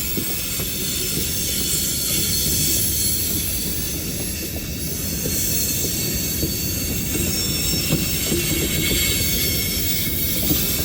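Railroad cars rolling along the track with a steady rumble, a continuous high-pitched squeal of steel wheels on the rails, and scattered clicks from the wheels over the track.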